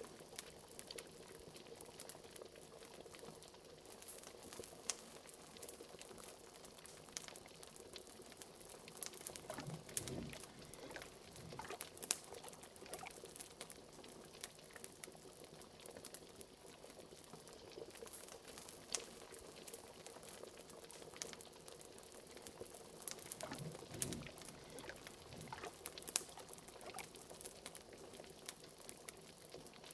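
Liquid bubbling at a steady boil, with frequent sharp pops and clicks and a couple of deeper glugs about ten and twenty-four seconds in.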